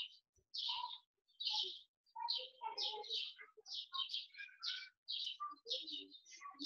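Birds chirping faintly: a string of short, high calls with brief gaps between them.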